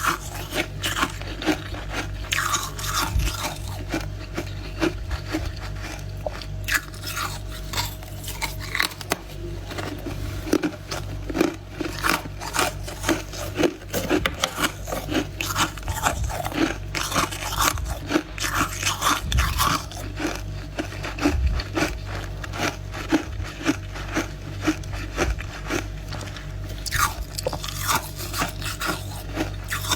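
Freezer frost being bitten and chewed close to the microphone: a dense run of sharp, crisp crunches throughout, over a steady low hum.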